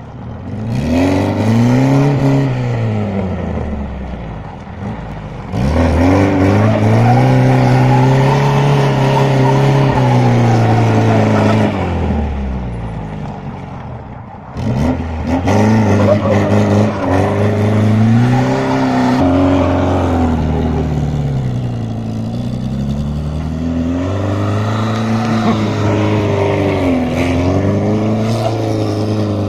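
VAZ 2106's four-cylinder petrol engine revved hard several times, the pitch climbing, holding high for a few seconds and dropping back. Near the end the revs wobble up and down quickly.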